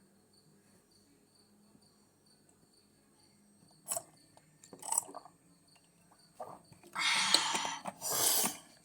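Crickets chirping faintly and evenly in the background. From about four seconds in, paper rustles briefly a few times while being handled, then rustles loudly twice near the end.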